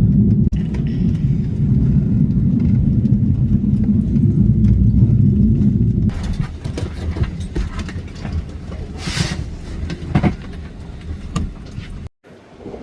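Steady low rumble of an Embraer E175 jet heard inside the cabin. About halfway through the rumble drops off suddenly, leaving a quieter background with scattered clicks and knocks.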